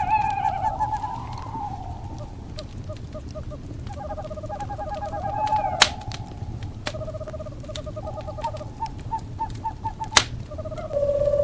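Owls calling in rapid trills of repeated notes and wavering whinnies, over a wood fire crackling with sharp pops, two of them loud, about six and ten seconds in. A steady low rumble runs underneath.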